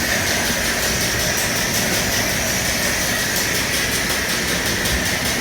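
Steady, even mechanical noise of a large commercial kitchen: ventilation and cooking equipment running.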